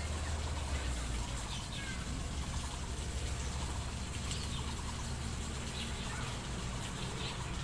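A few faint, short bird chirps now and then over a steady low rumble.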